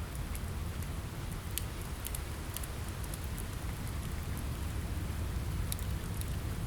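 Steady rain on a window mixed with a crackling fireplace: a constant hiss over a low rumble, with scattered sharp pops and crackles.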